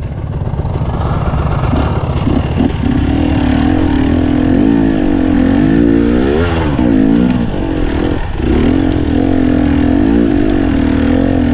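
Enduro dirt bike engine running under load on a steep forest trail, its revs wavering up and down with the throttle, with a sharp dip and rise about six to seven seconds in.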